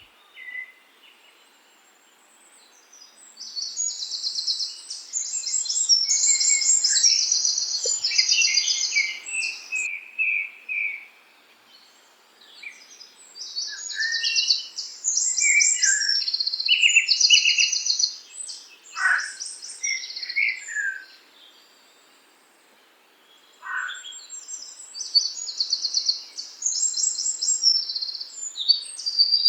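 Songbirds singing: bouts of several seconds of rapid, repeated high chirping phrases, broken by quieter pauses. Scattered lower notes and a few quick downward-sliding calls fall between them.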